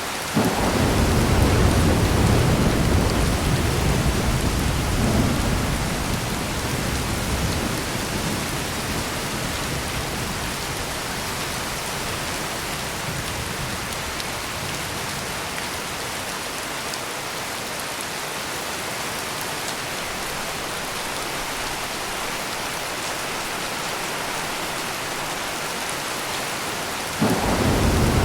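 Heavy rain pouring steadily. A deep thunder rumble breaks in suddenly right at the start and rolls away over several seconds, and another thunderclap begins suddenly near the end.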